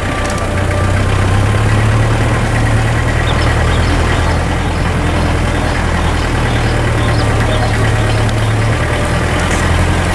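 Car engine running at low speed, a steady low hum heard from inside the cabin, easing slightly near the end, with rolling noise from the vehicle moving slowly.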